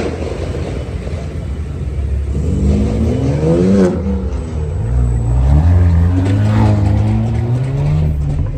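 Car engine accelerating hard, its pitch climbing for about a second and a half before a sudden break near four seconds in, then rising again for a longer pull.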